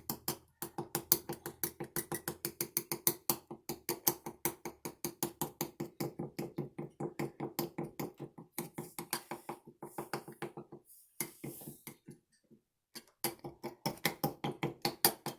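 Fork mashing Oreo cookies soaked in milk into a doughy batter, tapping against the bowl in a quick, steady run of clicks; it stops briefly about 11 seconds in, then starts again.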